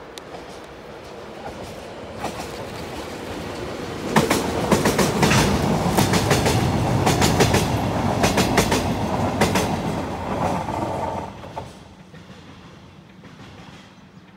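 DE15 diesel-hydraulic locomotive and its Chiki rail-carrying flatcars passing close by. The engine grows louder, then from about four seconds in come loud, repeated wheel clicks on the rails as the locomotive and wagons go by. The sound falls away about twelve seconds in.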